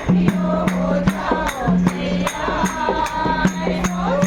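Group devotional singing: several voices chanting over a held low note, with jingling percussion strikes keeping a steady beat of about three a second.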